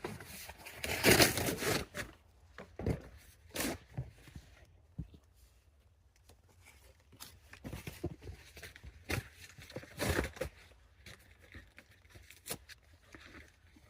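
Dry kindling being handled to start a campfire: irregular tearing, crumpling and snapping noises, loudest about a second in.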